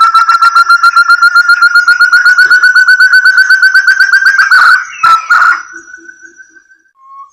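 Forest partridge (puyuh hutan) calling: a fast run of short, clear whistled notes that slowly rises in pitch. It breaks off about four and a half seconds in, a few stray notes and a fading rising whistle follow, and a new run begins near the end. It is a recorded call used as a bird lure.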